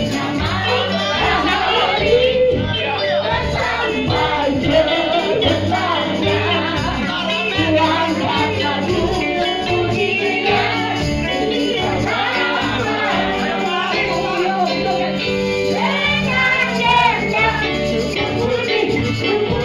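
Church worship song: voices singing a melody over a band with steady bass notes and jingling tambourines.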